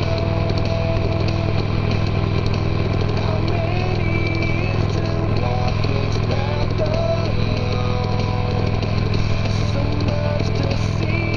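Motorcycle engine running steadily, a constant low rumble with no clear revving.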